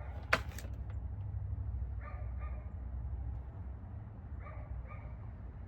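A dog giving short high whines in two pairs, a couple of seconds apart, over a steady low hum. A sharp click sounds just before, near the start.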